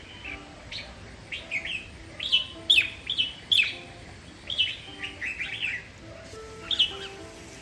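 Red-whiskered bulbul singing: short, quick phrases of sweeping whistled notes, repeated every second or so and loudest about three seconds in.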